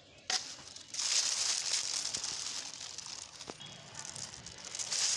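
Plastic crinkling and rustling as a dirty plastic bottle and plastic litter are handled and pulled from the soil, with a sharp click about half a second in.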